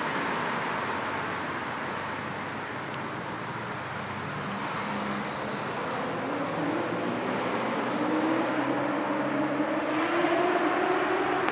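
City street traffic: steady road and tyre noise, with one vehicle's engine climbing slowly in pitch and growing louder over the last five seconds as it accelerates.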